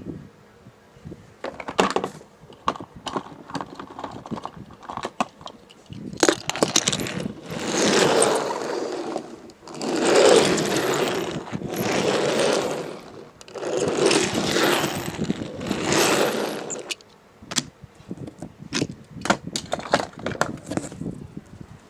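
Hard clicks and cracks of ice cubes, then five longer bursts of rough crunching noise a second or two each, then more scattered clicks near the end.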